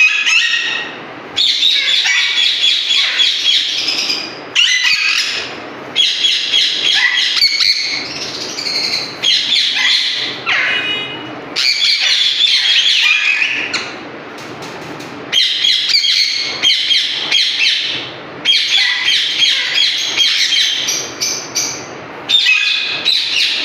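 Alexandrine parakeets calling: rapid, repeated calls in bursts of a few seconds each, separated by short pauses.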